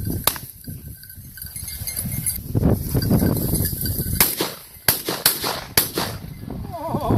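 Wind buffeting the microphone in a low, gusting rumble, with several sharp clicks or knocks, most of them four to six seconds in.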